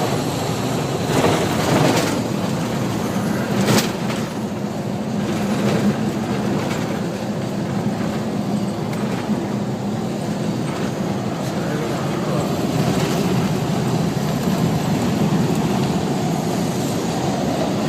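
Steady engine and road drone of a moving truck, with a low hum underneath and a few brief knocks or rattles, one about four seconds in.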